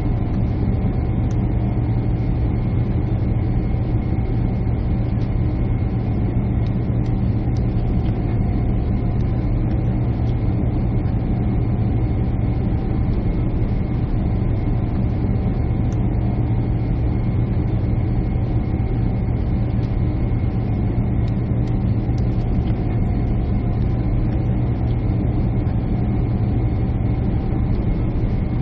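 Jet airliner cabin noise: a steady, loud drone of the engines and airflow heard from a passenger seat, with a faint steady whine above it.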